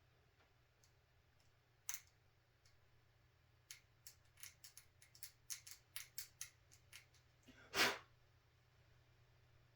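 Small hand tool scraping paint off a plastic model part in a run of short, quick scratches, about three a second, then one louder, longer scrape near the end. It bares the plastic so that glue will hold.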